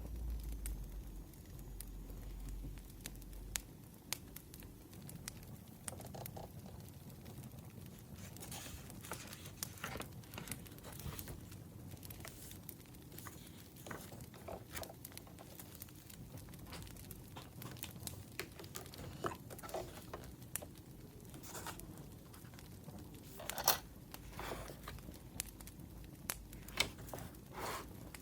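Wood fire crackling: irregular small snaps and pops scattered throughout, with a louder snap about 24 seconds in.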